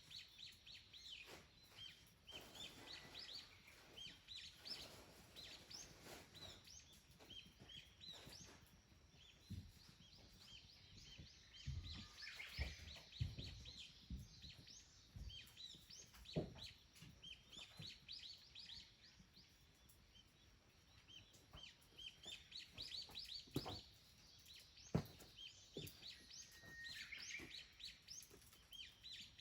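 Small wild birds twittering, with many short, rapid chirps that keep going throughout. A few soft thumps come in around the middle and near the end.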